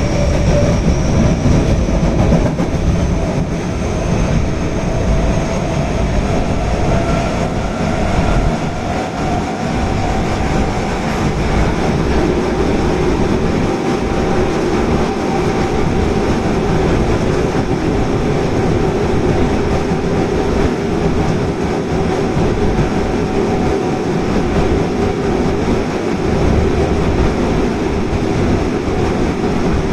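Osaka Metro Tanimachi Line subway train heard from inside the car while running between stations: a steady rumble of wheels on rail, with faint motor whine tones that rise slowly in pitch as the train gathers speed, then hold steady.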